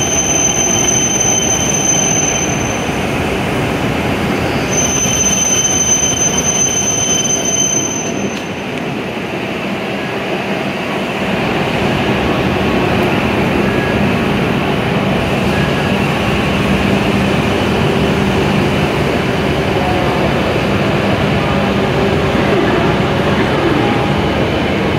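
W7 series Shinkansen train rolling in along the platform and slowing, with steady running noise. A high, steady squeal sounds twice in the first eight seconds, and a low hum comes in about halfway through.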